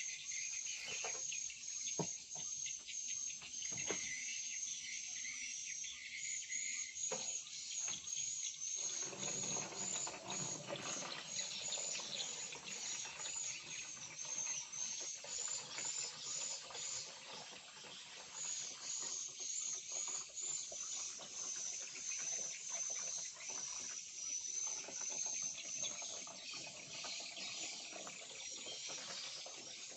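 Crickets chirring in a steady high trill, with a few sharp clicks in the first several seconds.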